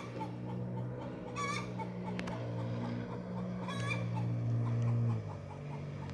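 Chickens clucking, with two short louder calls about a second and a half in and near four seconds in, over a steady low jet ski engine drone that drops in pitch a little after five seconds.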